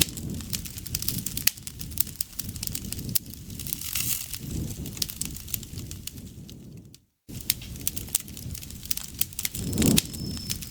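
Campfire burning, with frequent sharp crackles and pops over a low rustle of flame. The sound cuts out completely for a moment about seven seconds in.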